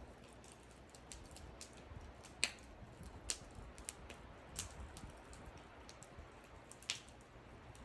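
Wood fire crackling: irregular sharp pops and snaps from burning wood over a faint low rumble of flames, with a few louder pops, the loudest about two and a half seconds in.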